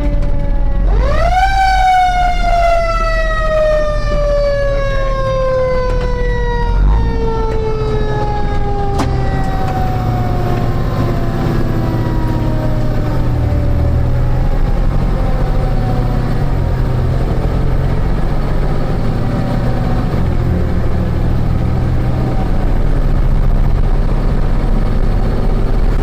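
Fire engine siren sounding once: it rises sharply about a second in, then falls slowly for about ten seconds, over the steady low rumble of the fire truck's engine as it runs on the call. Heard from inside the truck's cab.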